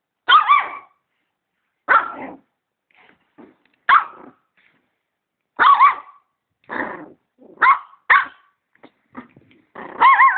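A dog barking repeatedly, about eight loud barks at irregular gaps of one to two seconds, some with a wavering pitch.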